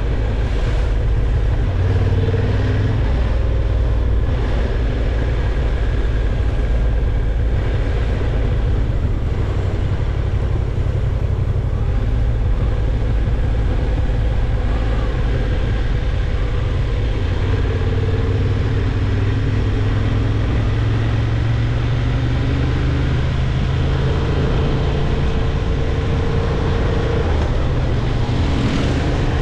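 Honda CB750 Hornet's parallel-twin engine running at a steady road speed, its pitch drifting slowly up and down with the throttle, under a constant rush of wind and road noise.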